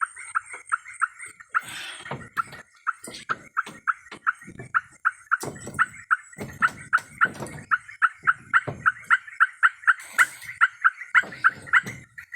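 A small animal calling in an even, rapid series of short high notes, about four a second, over a steady high insect-like drone, with irregular low knocks and rustles in between.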